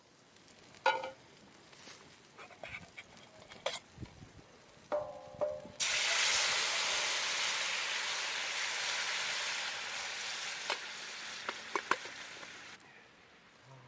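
A few clicks and knocks of cookware being handled, then loud sizzling starts suddenly as food or liquid goes into a hot frying pan, easing off slowly before it stops abruptly.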